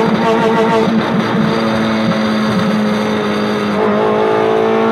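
Honda Civic's D16Y7 1.6-litre SOHC four-cylinder held flat-out in second gear against the rev limiter, with no air filter, heard from inside the cabin. The high engine note stutters rapidly as the limiter cuts in during the first second, then runs steadier near the cut-off.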